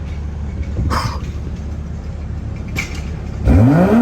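A steady low rumble, then about three and a half seconds in the 2022 BMW 340i's turbocharged 3.0-litre inline-six cold-starts: it catches and flares, its pitch climbing quickly.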